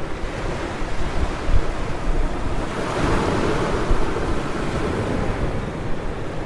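Ocean surf breaking on a beach, one wave swelling and washing in about three seconds in, with wind buffeting the microphone.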